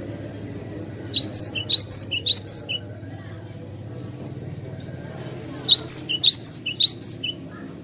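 Cinereous tit (gelatik batu) singing: two phrases of rapid, sharp, high notes, each about a second and a half long, the second starting about four seconds after the first.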